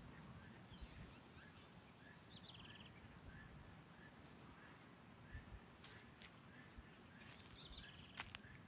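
Quiet open-air ambience with faint distant birds: short chirps repeating about twice a second and a brief high trill. A few sharp clicks come in the last few seconds, the loudest just before the end.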